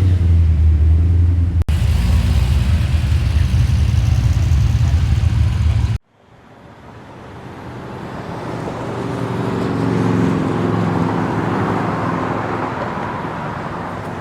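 A muscle car's engine running loud and deep at low revs. About six seconds in it cuts off sharply, and a car is heard drawing near and passing, growing louder and then fading away.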